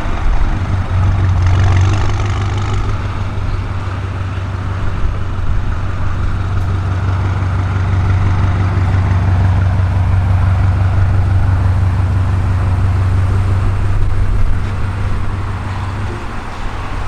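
BMW M5 F90's twin-turbo V8 with an aftermarket exhaust, running steadily at a constant speed with a deep, even low note.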